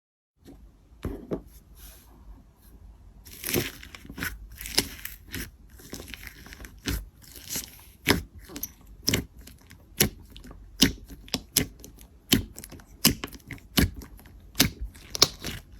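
Slime being squished and pressed by hand, crackling and popping with sharp clicks. In the second half the pops come at a steady pace, a little over one a second.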